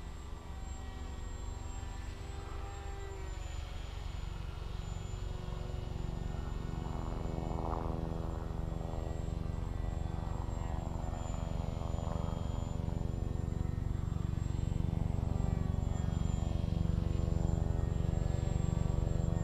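Aircraft drone made of several steady tones with a thin high whine on top, growing slowly louder.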